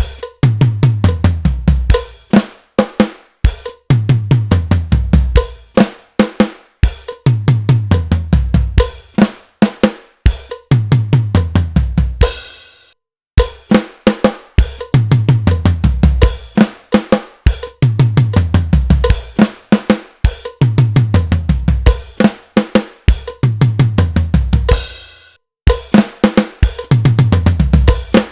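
Drum kit played over and over: short phrases of snare and kick hits, each ending in a tom roll that steps down in pitch from high tom to floor tom. It breaks off for about a second after a cymbal crash about twelve seconds in, then resumes.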